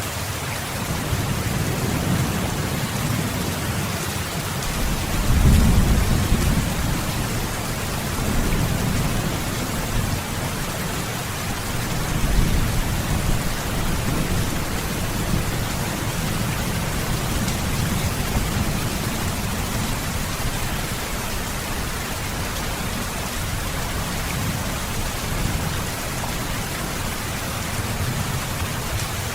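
Heavy rain pouring steadily, with low thunder rumbling underneath that swells up a few times, most strongly about five seconds in and again about twelve seconds in.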